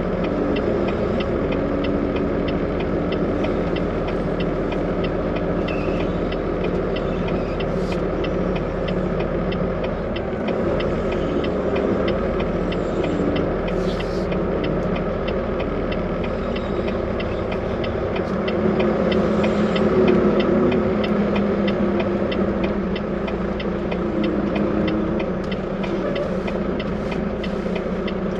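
Diesel engine of a Volvo VNL 860 semi truck running steadily, heard from inside the cab, with an even clatter over a low hum. The hum rises a little in pitch and loudness about two-thirds of the way through.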